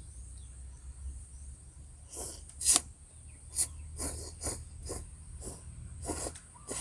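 A person slurping and eating instant noodles: a string of about eight short, irregular slurps and mouth noises.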